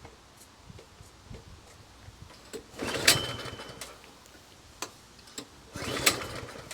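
Two pulls on a snowblower's recoil starter rope, about three seconds apart, each a brief swish as the engine turns over without firing, because the ignition is still switched off. Scattered clicks fall between the pulls.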